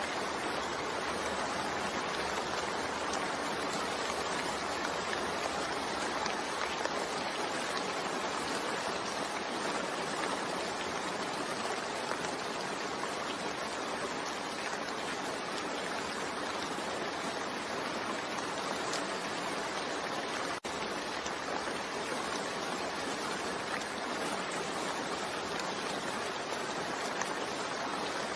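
Steady heavy rainfall, a dense, even hiss of falling rain with no let-up. It drops out for an instant about two-thirds of the way through.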